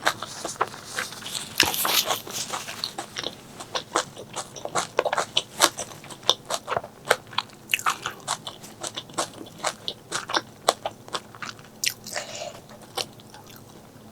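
A person chewing and biting food close to the microphone, with rapid sharp crunches and clicks several times a second. The food is spicy duck intestine curry with stir-fried morning glory.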